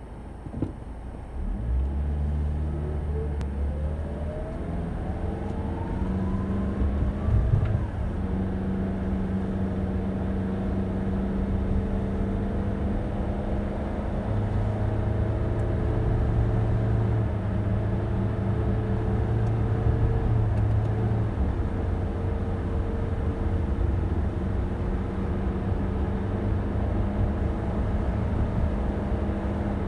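A car starting to drive off about a second and a half in, its engine note rising in pitch for several seconds, then running steadily with tyre and road noise.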